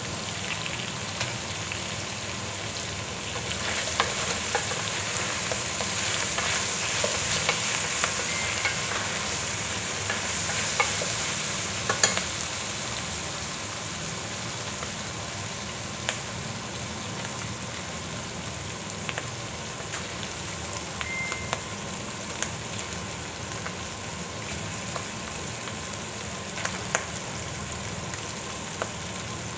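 Pork pieces sizzling in an aluminium pot over a gas burner, louder in the first third and settling to a steadier sizzle, with scattered clicks and knocks against the pot.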